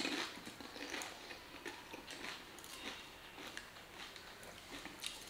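A person chewing a mouthful of pani puri: a run of irregular soft crunches and wet mouth clicks from the crisp fried puri shell.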